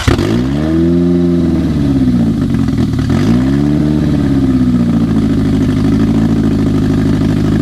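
2003 Toyota Corolla's four-cylinder engine catching just after cranking. Its revs rise and fall twice, then it settles into a steady idle that the owners suspect of a misfire, maybe from a bad connection to the ECU.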